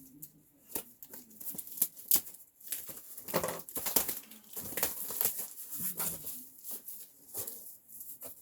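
A heavily taped cardboard box being torn open by hand: irregular rips, rustling and sharp cardboard clicks, busiest a few seconds in.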